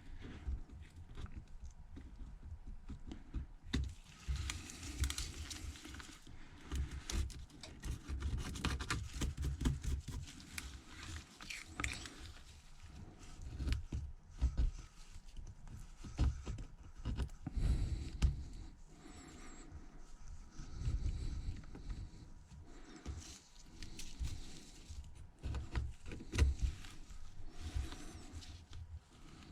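A hand tool scraping and picking at shattered back glass on an iPhone XS Max's metal housing around the camera bezel: irregular small clicks, crackles and short scrapes.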